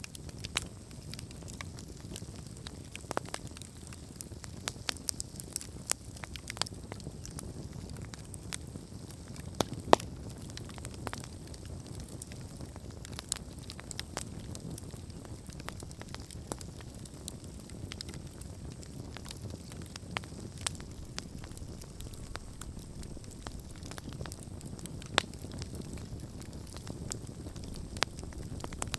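Wood campfire burning steadily, crackling with scattered sharp pops over a low rumble of flame; the loudest pops come about ten seconds in and again near twenty-five seconds.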